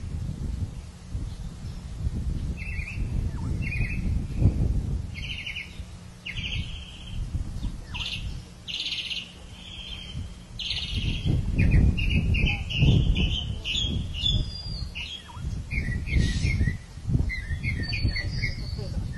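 Birds calling, a run of short chirps and squawks one after another, over a low rumbling noise that grows louder past the middle.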